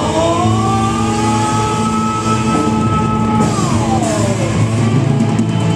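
Rock band playing an instrumental passage with drums and bass. A held lead note glides upward, sustains, then slides down about three and a half seconds in.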